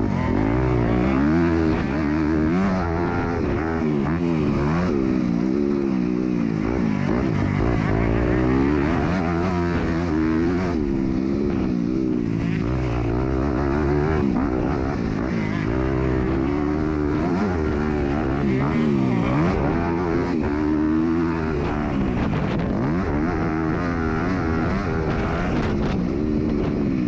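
Motocross bike engine under race riding, revving up and down over and over, each rise and fall lasting a second or two, heard from an onboard camera on the bike.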